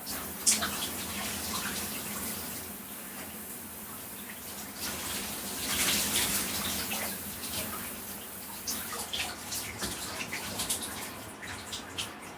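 Shower spray running and splashing off a person's body, with irregular splatters as the body moves under the water and a louder stretch of splashing about six seconds in.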